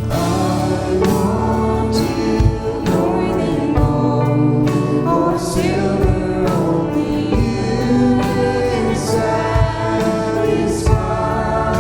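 Live worship music: a group of singers over a band, with a steady drum beat about once a second.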